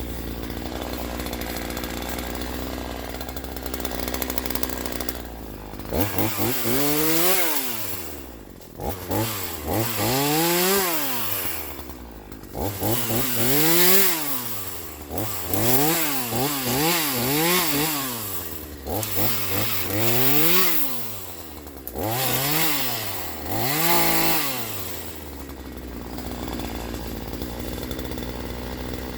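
Troy-Bilt TB4218 42cc two-stroke chainsaw idling steadily, then revved up and let back down about nine times over some twenty seconds, before dropping back to a steady idle near the end.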